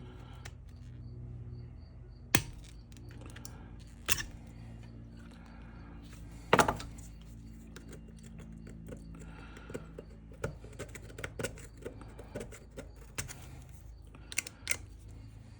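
Small metal parts of an old float-type sending unit clicking and knocking as they are handled. There are a few sharp knocks, the loudest about six and a half seconds in, then a run of lighter ticks near the end, over a steady low hum.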